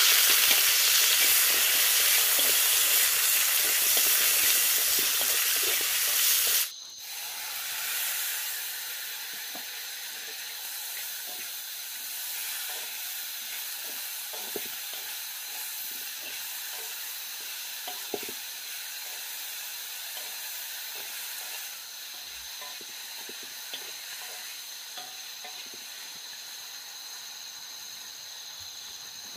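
Food sizzling and frying in a hot pan for about seven seconds, cut off suddenly. After that comes quieter outdoor ambience with a steady high insect drone and a few faint clicks.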